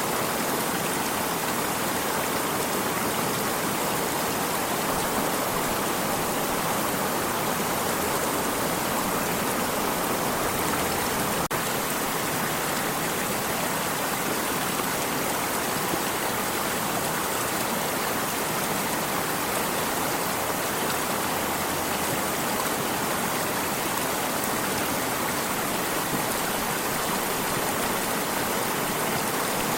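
A stream of water running steadily: an even rushing of water that stays the same throughout.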